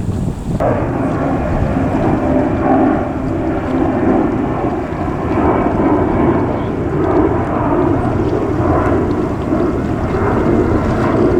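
Jet airliner engines running, a loud steady rumble that starts abruptly about half a second in.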